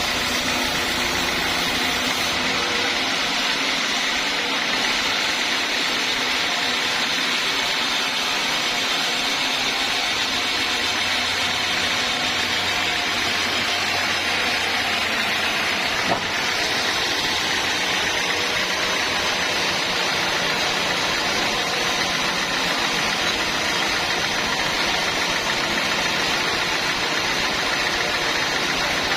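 Sawmill saw running steadily, with one sharp knock about 16 seconds in.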